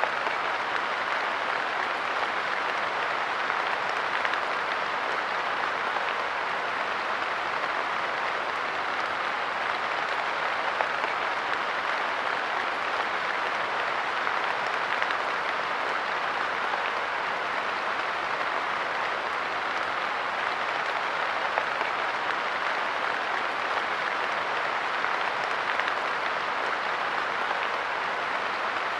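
Light rain falling steadily, with a dense, even patter of drops on a park bench.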